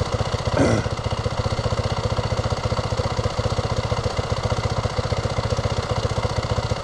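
A motorcycle engine idling steadily with an even, fast firing beat, with a brief louder noise just after half a second in. The engine has just been started and left running after trouble getting it to start.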